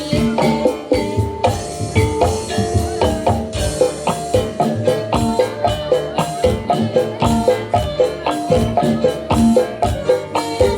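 Instrumental jaranan dangdut music: a steady, driving drum beat under quick repeating pitched notes struck like mallet percussion.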